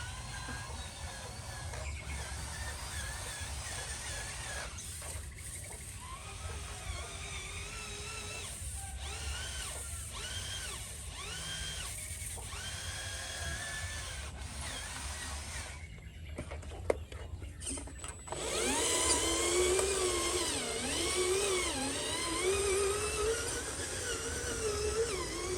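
Small electric motors and gearboxes of radio-controlled construction models whining, their pitch rising and falling as the throttle changes, growing louder about two-thirds of the way through.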